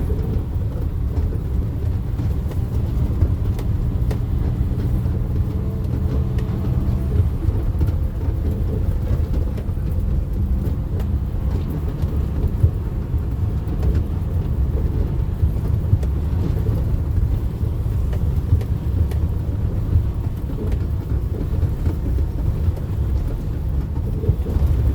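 Steady low rumble of a moving vehicle, engine and road noise without a break.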